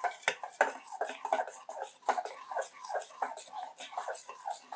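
Chicken fillets being stirred in a coconut-cream and garlic marinade: a quick, irregular run of short mixing strokes, a few a second.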